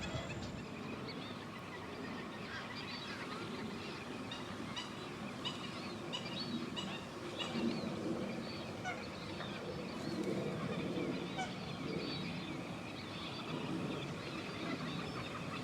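A marsh full of waterbirds calling, with many short calls overlapping, some higher and chirping and many lower and honking.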